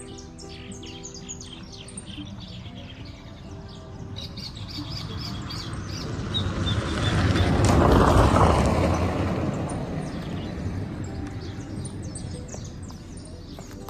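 Small birds chirping and tweeting. A broad rushing noise swells to a peak about halfway through and then fades away.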